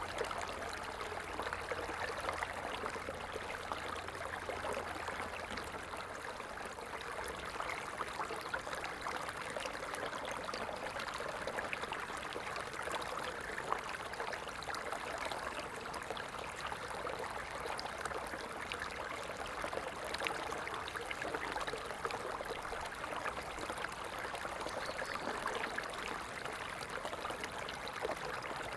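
Stream flowing steadily, an even rushing and trickling of water with many small splashes.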